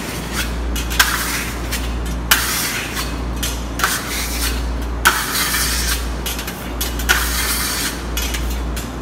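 Colourless carnauba wax being wiped by hand onto a burnt-cement wall finish: a series of short, rough swishing strokes, about one every one to two seconds, over a steady low hum.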